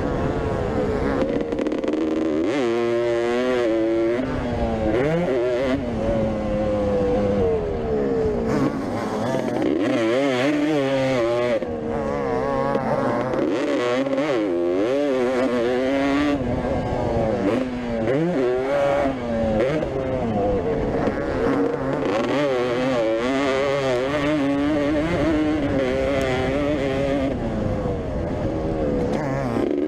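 Vintage motocross motorcycles racing, several engines at once, their pitch rising and falling over and over as riders rev up and back off.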